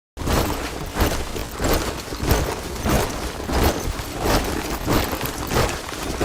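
A body of soldiers marching in step: many boots striking the ground together, with a regular heavy beat. It starts abruptly just after the start, out of silence.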